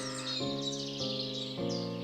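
Gentle piano music, a new note or chord about every half second, with birds chirping repeatedly over it.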